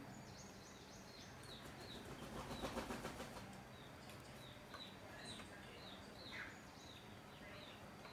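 Small birds chirping faintly in the background: a steady series of short, high, downward-sliding chirps. About two to three seconds in comes a brief burst of crackly noise, the loudest moment.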